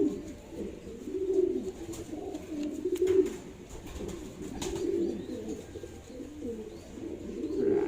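Several racing pigeons cooing together, low warbling calls that rise and fall and overlap one another without a break. A couple of short clicks or knocks sound about three and four and a half seconds in.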